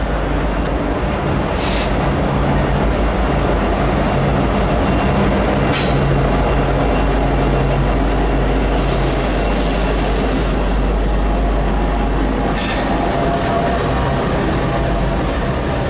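Norfolk Southern diesel freight locomotives passing close at speed, their engines rumbling, followed by intermodal cars rolling by. The wheels clank sharply over rail joints three times, and a thin high wheel squeal runs through the middle.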